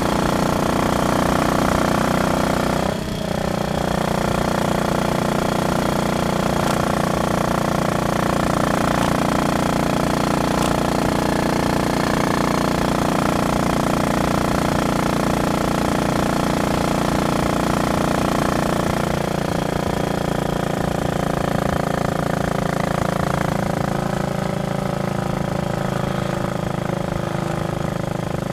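Royal Enfield Bullet Machismo 500's single-cylinder engine running steadily as the bike is ridden, with a brief drop and change in the engine note about three seconds in.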